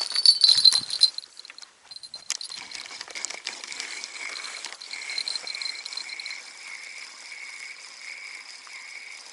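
A fishing-rod bite bell jingles and rattles for about the first second. Then comes a steady night chorus of calling animals, with a high pulsing call repeating about one and a half times a second.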